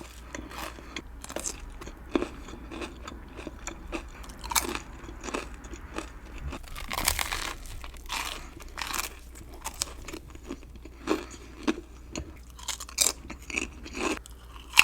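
Close-miked chewing and crunching of crisp potato chips and a sandwich, with irregular sharp crunches, the loudest clustered in the last few seconds.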